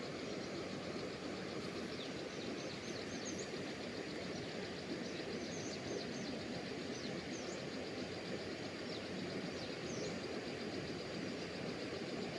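Steady rush of flowing river water, with short high bird chirps scattered through it.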